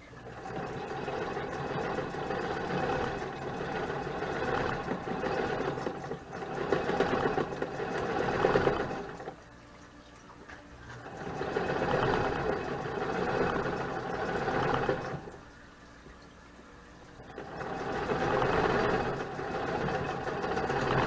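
Vintage Singer sewing machine stitching a seam through fabric in three runs, stopping briefly between them.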